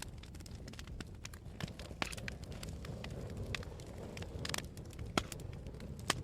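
Campfire burning: wood crackling with frequent sharp pops, the loudest about halfway through and near the end, over a steady low rumble of flames and wind.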